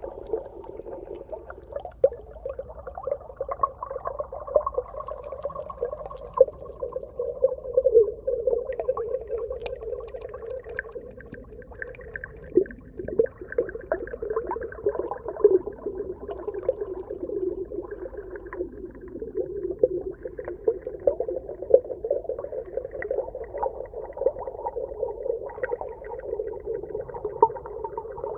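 Underwater ambience: a steady, muffled drone with a wavering pitch, overlaid with constant small clicks and pops.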